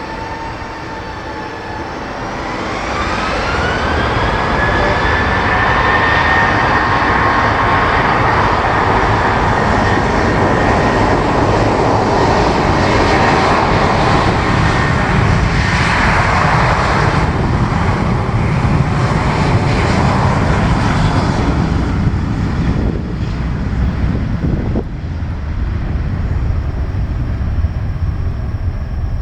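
Boeing 737-800's CFM56-7B turbofan engines spooling up, their whine rising in pitch about two seconds in, then running loud and steady at takeoff thrust before fading away near the end.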